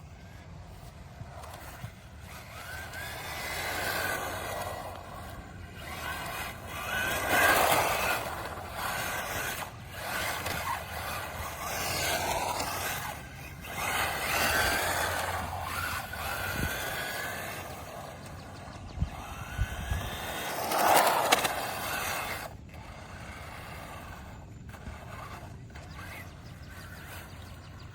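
Hyper Go 14301 V3 1/14-scale RC drift car with its 3900 kV brushless motor running in several passes: the motor whines up and down in pitch as the throttle changes, with tyres scraping over the ground. The loudest pass comes about 21 seconds in.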